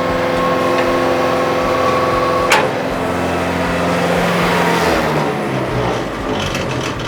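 Bandit 12XP wood chipper's engine running steadily, with a sharp click about two and a half seconds in; about five seconds in its pitch drops.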